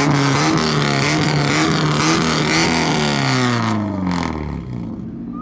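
A car engine running loud under throttle. Its pitch drops and the sound fades about four seconds in.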